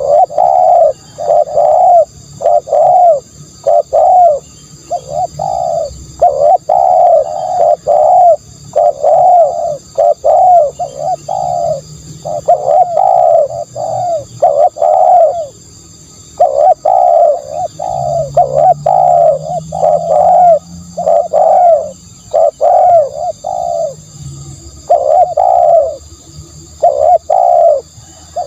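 Spotted dove cooing: a long run of short, arched coo notes repeated in phrases of several notes, with brief pauses between phrases.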